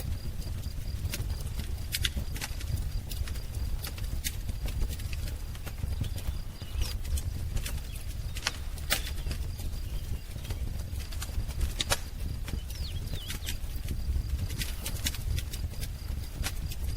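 Wood fire crackling, with irregular sharp pops over a low steady rumble, and a few faint bird chirps in the background.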